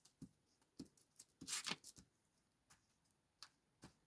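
Faint, scattered small taps and paper rustles of hands handling paper and craft supplies on a desk, with one longer rustle about one and a half seconds in.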